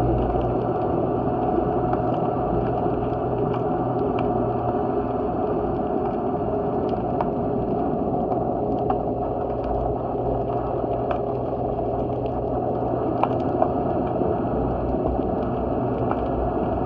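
Steady low hum and rumble with scattered sharp clicks and crackles, as heard underwater below a wharf.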